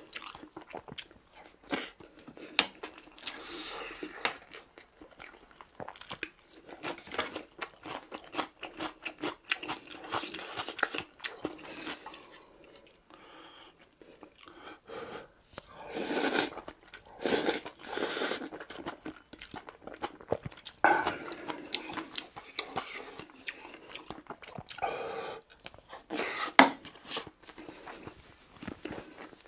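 Close-miked chewing and eating of rice and a braised tofu stew with noodles, with many sharp clicks of a spoon and chopsticks against the dishes. The loudest click comes near the end.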